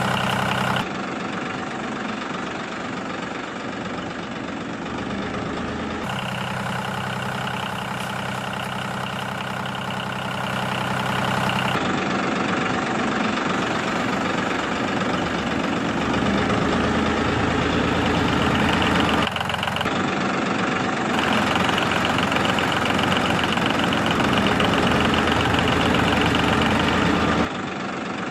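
A motor runs steadily with an even hum. Its pitch and tone switch abruptly several times: about a second in, around six and twelve seconds, briefly near nineteen seconds, and again near the end.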